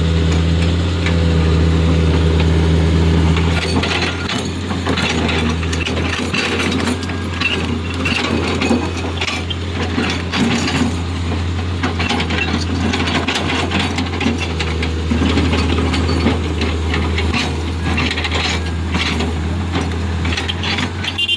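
Diesel engine of heavy machinery, most likely the excavator, running steadily, with irregular clattering and clanking of metal and stones from about four seconds in.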